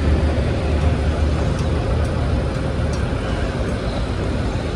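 Steady low rumble with a faint hum, a continuous mechanical background of the vehicle or traffic kind.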